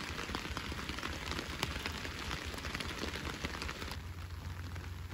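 Rain falling steadily, with many small drop ticks close by over a steady low rumble.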